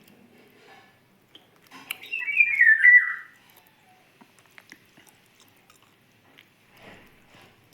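A small bird singing one short, loud run of notes that steps down in pitch, about two seconds in, with faint chirps and light ticks around it.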